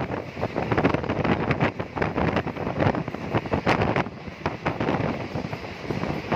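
Moving vehicle on the road, with wind buffeting the microphone and frequent short rattles and knocks.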